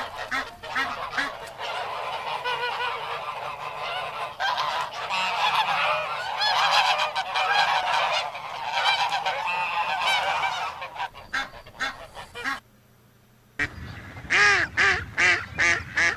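Domestic geese honking, with many calls overlapping, then a second-long break and louder separate honks near the end.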